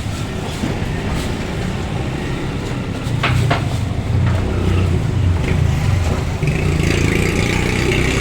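Steady low engine rumble like passing traffic, growing louder about three seconds in, with two sharp knocks just after that.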